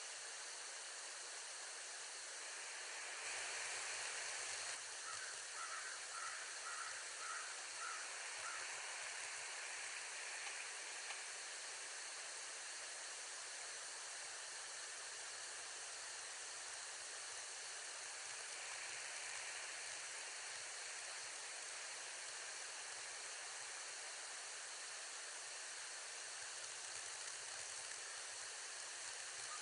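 Steady outdoor hiss, a little louder about 3 to 5 seconds in. About 5 seconds in a bird gives a quick series of about eight short, high, evenly spaced chirping notes.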